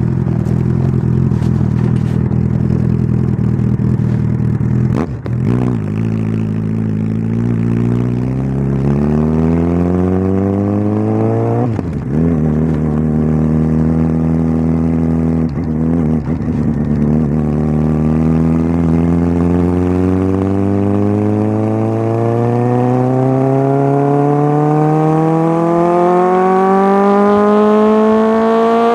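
Suzuki GSX650F's inline-four engine through a Tiger aftermarket exhaust, accelerating: the pitch climbs, drops back at a few gear changes, then rises steadily for the last ten seconds or so.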